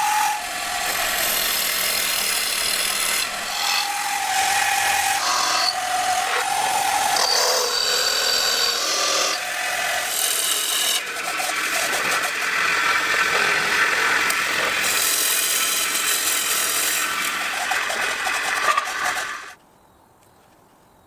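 A hand tool rasping and scraping against wood, continuous and loud, with a few short whining tones mixed in, until it stops abruptly about a second and a half before the end.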